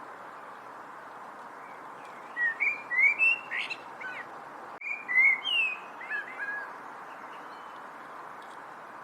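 A songbird singing two short phrases of slurred, warbling whistles, about two and a half seconds in and again about five seconds in, over a steady background hiss.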